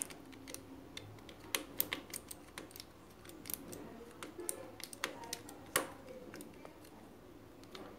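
Scattered light clicks and taps at irregular spacing, from hands working on the sewing machine's light-switch wiring and terminals.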